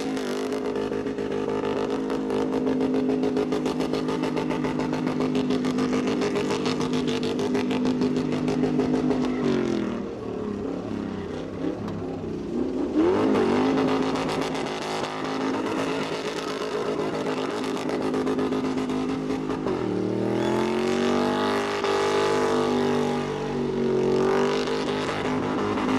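SUV engine held at high revs while drifting in circles, with a hiss of tyre noise behind it. The revs drop about ten seconds in and again about twenty seconds in, then climb back up each time.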